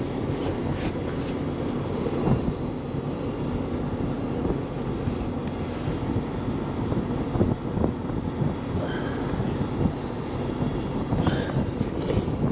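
Heavy truck engine running steadily, with a few scattered clanks and knocks.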